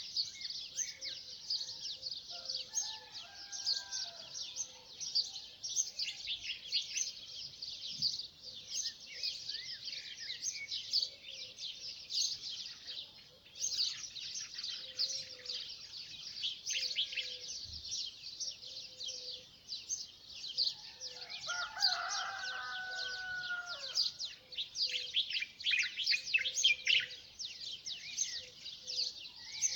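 Dawn chorus of many small birds chirping rapidly and continuously in a dense, high-pitched mass. A louder, lower call with several tones stands out about 22 seconds in, with a fainter one near the start.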